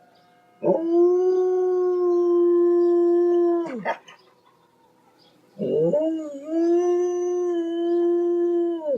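A dog howling: two long howls, each held on one steady pitch and falling away at the end, with a short pause between them.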